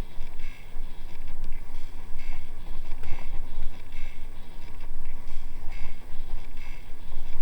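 Wind buffeting the microphone during a ride on an electric vehicle, a heavy low rumble, with a faint higher sound repeating a little more than once a second.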